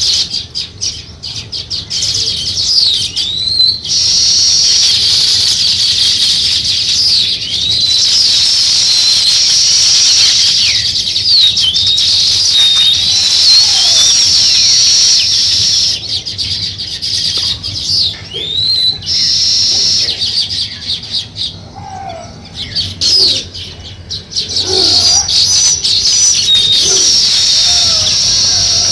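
A dense chorus of many small birds chirping and twittering at once, high-pitched and overlapping. It thins out for several seconds in the second half, then fills in again.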